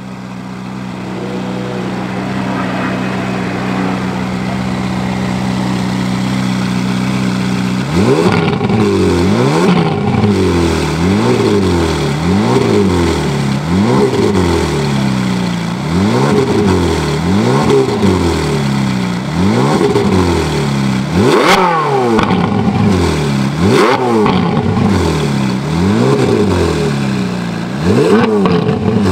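Ferrari 458 Italia's naturally aspirated V8 through an Akrapovic exhaust, idling steadily for about eight seconds. It is then revved in sharp blips, rising and dropping back about every two seconds, around ten times.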